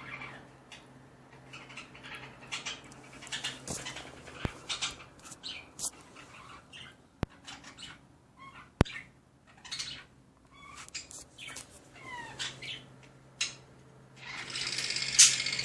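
Pet birds calling in short scattered chirps and squawks, with two sharp clicks around the middle and a louder burst of squawking near the end, over a faint steady hum.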